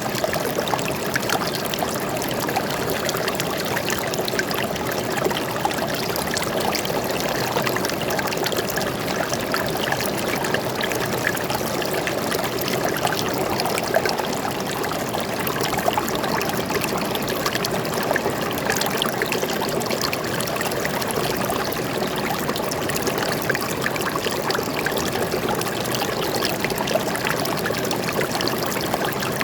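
Forest stream flowing steadily, a continuous rush of water with fine trickling splashes throughout.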